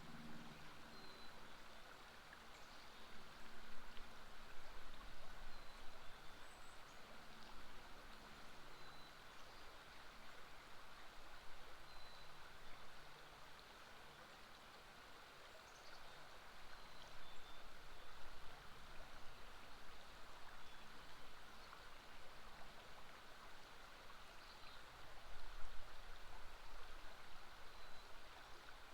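River water flowing with a steady, faint rush, and brief high bird chirps scattered through it.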